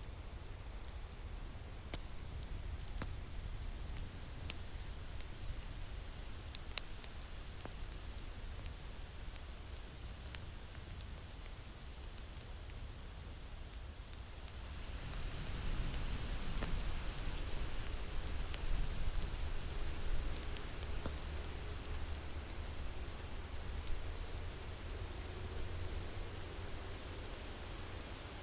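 Winter wind ambience with a low rumble, swelling into a stronger gust about halfway through, over the scattered pops and crackles of a wood fire.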